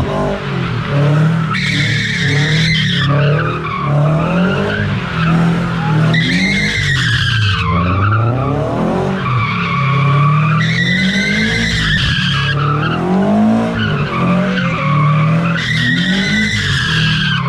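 A car doing donuts, tyres squealing in long wavering squeals that come in waves every few seconds while its engine revs up and down.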